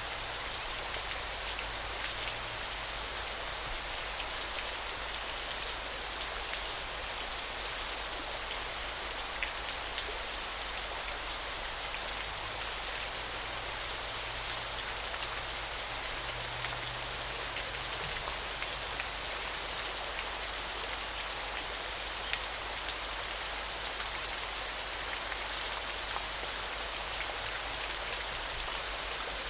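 River water flowing in a steady, even rush. Over it, a high thin buzz holds for several seconds, then returns in short repeats about every two seconds in the second half.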